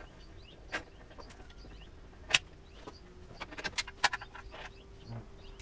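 Sharp metallic clicks and clinks of a socket wrench working the exhaust muffler's mount bolt on a motorcycle: scattered single clicks, one louder snap a little over two seconds in, and a quick run of clicks about three and a half seconds in.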